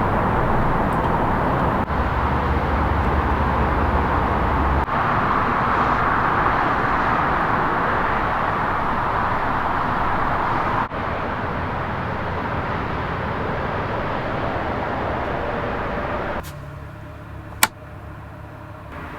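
Engine running steadily, with a few abrupt breaks in the sound. Near the end it drops to a quieter hum, and there is one sharp click.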